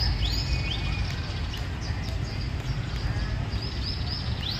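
Songbird chirping in runs of quick, arching high notes, about three a second, one run at the start and another near the end, over a steady low rumble.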